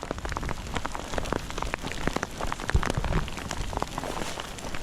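Small hail (graupel) falling and striking, heard as a dense, irregular rattle of sharp clicks.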